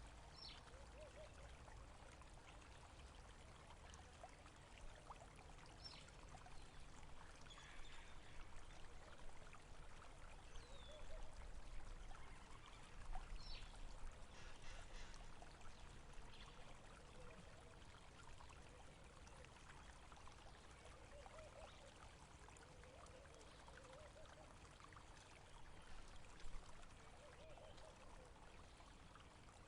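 Faint stream of running water trickling and gurgling steadily, with a few short high chirps over it.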